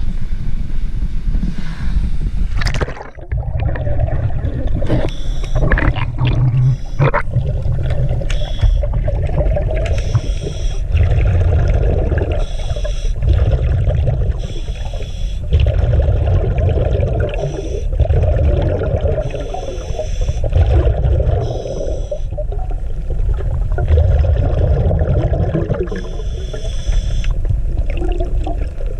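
Ski boat under way: engine and water rushing past the hull, in a loud low rumble that swells and fades every couple of seconds.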